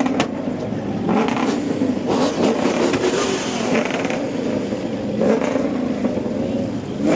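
Loud car engine revving, its exhaust rising and falling several times.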